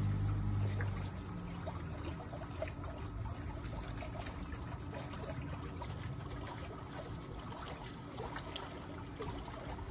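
Pool water trickling and lapping, with many small splashes. A low hum fades out over the first second or two.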